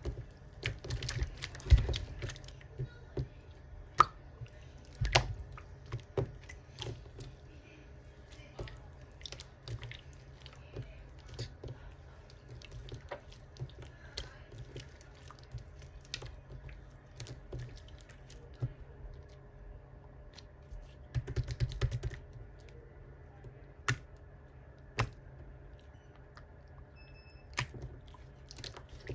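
Irregular light clicks, taps and small knocks from handling utensils and fruit while making orange juice, with a denser run of handling noise about three-quarters of the way through.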